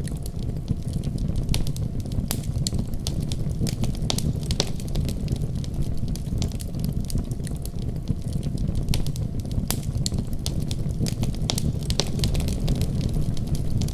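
Wood fire burning with a steady low roar of flame and frequent sharp, irregular crackles and pops.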